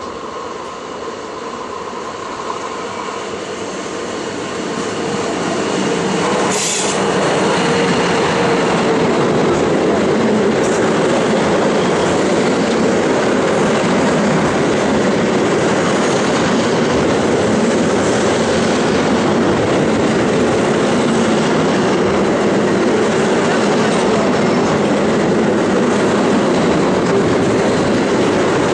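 Freight train of double-deck car-carrier wagons loaded with new cars approaching and then rolling past close by: a steady, loud rumble of wheels on rails that grows over the first several seconds. A brief sharp crack comes about six and a half seconds in.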